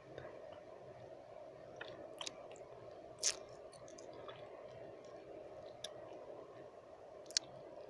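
Close-up wet mouth sounds: scattered tongue and lip clicks and smacks, the loudest about three seconds in and another near the end, over a steady background noise.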